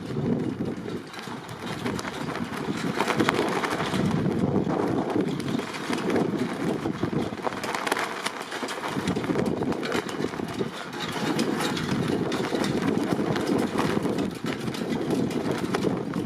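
Strong gusting wind buffeting the microphone, surging and easing.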